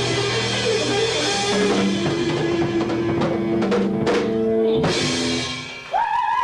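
Live rock band closing a song: distorted electric guitars and bass hold notes while the drum kit plays fills, ending in a last hit that dies away, and a new held high tone starts just before the end.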